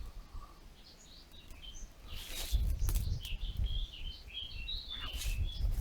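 A small bird twittering: a run of short, high chirps. A low rumble on the microphone comes in about two seconds in.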